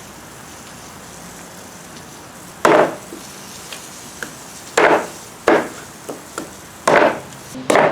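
Four heavy chopping blows into wood at uneven intervals, with a few lighter knocks between them.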